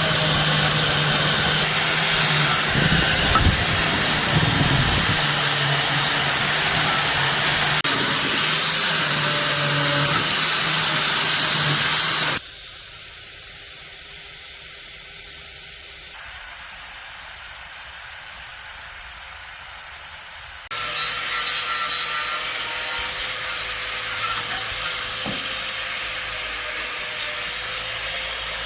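An electric power tool running steadily, as used for cleaning and polishing parts. About twelve seconds in, it cuts off abruptly to a quiet hiss, and a loud tool noise starts again suddenly about eight seconds later.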